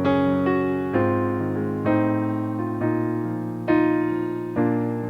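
Solo piano playing slow chords, a new chord struck about once a second and left to ring and fade.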